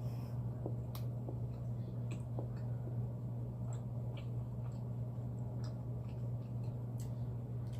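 Mouth sounds of someone chewing food, with faint small clicks, over a steady low electrical hum.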